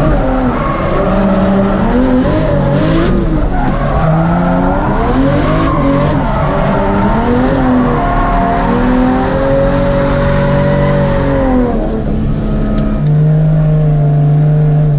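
Toyota JZX100 drift car's engine heard from inside the cabin, revs rising and falling again and again under throttle while the tyres skid. About two seconds before the end it settles to a steady, lower note.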